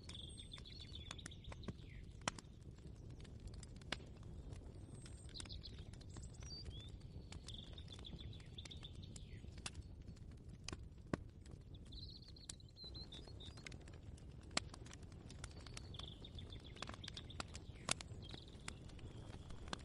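Faint kitchen ambience: birds chirping in short phrases every few seconds over a low steady hum, with scattered light clicks and taps, a few sharper ones standing out.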